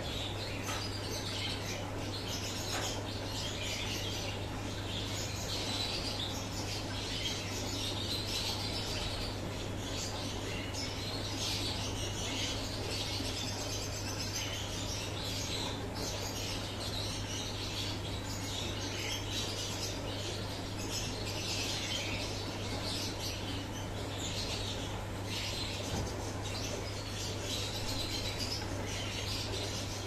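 Small birds chirping and twittering nonstop, many quick overlapping calls, over a steady low hum.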